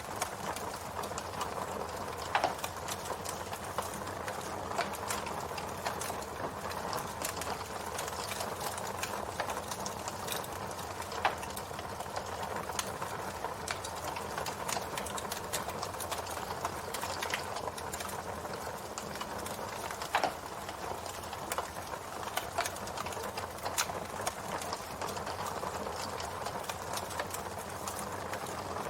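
Campfire burning: wood crackling over a steady hiss, with constant small clicks and three louder sharp pops spread through.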